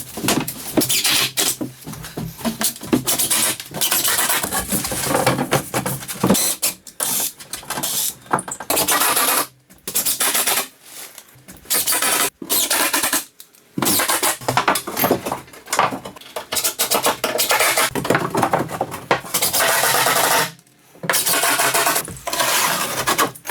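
Construction work noise from wall panels being cut and fitted: stretches of loud, hissing tool and material noise, broken by abrupt cuts and several brief pauses.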